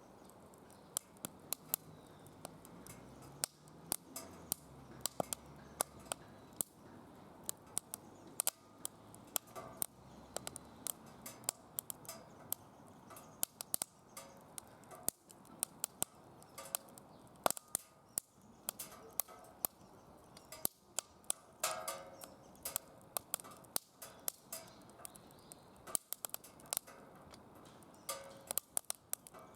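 Wood fire burning in a fire pit, crackling and popping with many sharp, irregular snaps.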